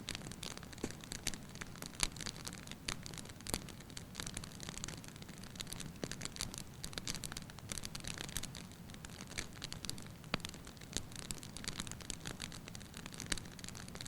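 Wood fire burning in a fireplace: logs crackling and popping in quick irregular snaps over a steady low rush of flame.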